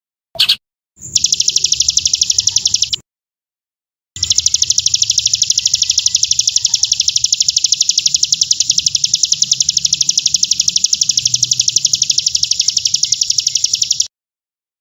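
A songbird's fast, even trill of sharp high notes, repeated many times a second with no change in pitch, the kind of 'tembakan' (rapid-fire) song used as tutor song for competition birds. It breaks off abruptly about three seconds in, resumes a second later and cuts off abruptly near the end.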